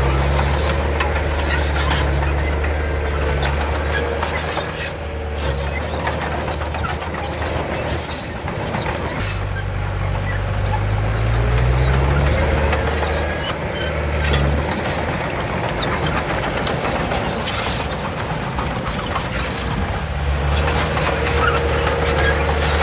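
Komatsu D31 crawler bulldozer working: its diesel engine runs under load, rises in pitch as it revs up around the middle, then eases off and picks up again near the end. Over it runs a thin steady squeal with scattered clanks, typical of a dozer's steel tracks.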